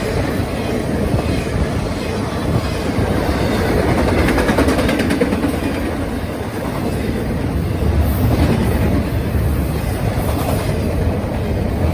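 Norfolk Southern train's cars rolling past with a steady rumble, the wheels clicking over the rail joints.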